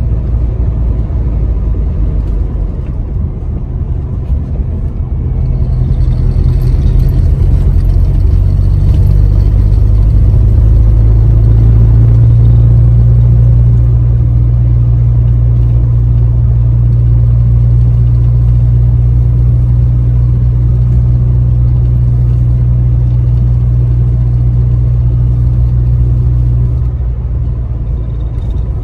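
Pickup truck engine and road rumble while driving, a steady low drone that grows louder about five seconds in and eases off near the end.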